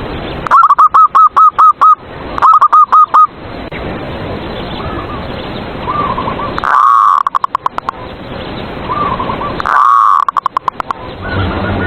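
Zebra doves (perkutut) cooing: two loud runs of quick, evenly spaced coo notes near the start, then twice a longer coo breaking into a fast rattle, with fainter cooing from other doves in between.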